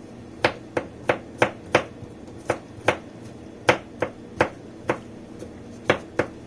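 A kitchen knife chopping fresh garlic cloves on a cutting board: a dozen or so sharp, unevenly spaced knocks as the garlic is minced.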